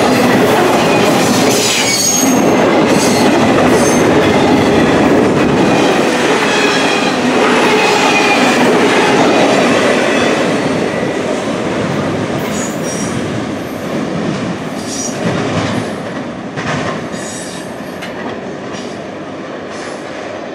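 Intermodal container freight cars rolling by, their steel wheels clattering over the rail joints with intermittent high wheel squeal. The sound is steady and loud until about halfway through, then fades as the end of the train passes and pulls away.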